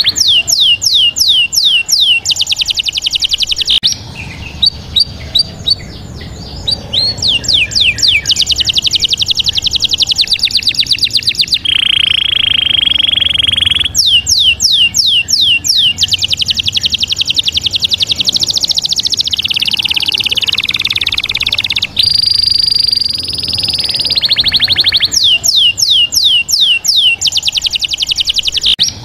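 Bird calls: fast series of high, downward-sweeping chirps and rapid trills, with a brief steady high whistle about halfway through.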